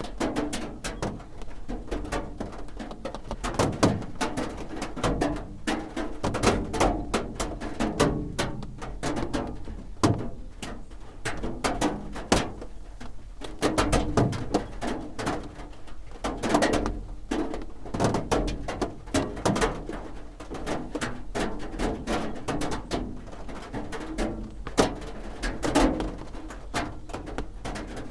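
Raindrops drumming on a roof: a dense, irregular patter of taps and knocks, with a steady low rumble underneath.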